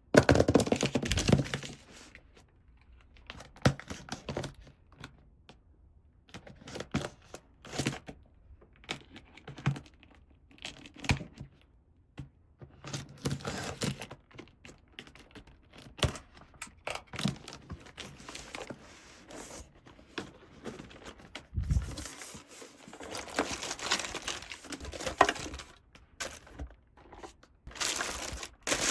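A miniature toy play set being unboxed by hand: packaging crinkling and rustling in irregular bursts, with small sharp clicks and knocks in between.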